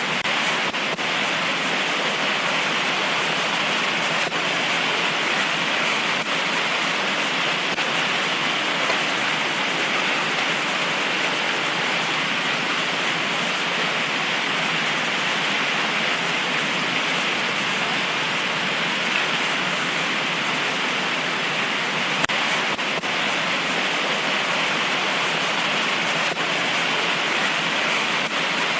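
Heavy tropical rain pouring steadily: a dense, even hiss that does not change, with a few faint taps of drops here and there.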